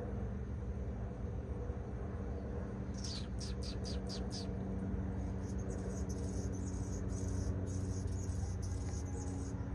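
A songbird gives a quick run of about six high, falling notes a few seconds in, followed by faint, irregular high ticks. A steady low mechanical hum runs underneath.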